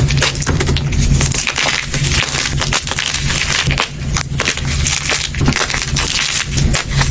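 Soft gym chalk being crushed, a continuous run of many small, irregular crumbly crunches. A steady low hum runs underneath.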